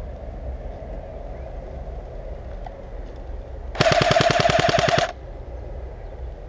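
Airsoft rifle firing one full-auto burst of about a second and a half, a rapid even rattle of roughly thirteen shots a second, loud and close. It starts near the middle and cuts off suddenly.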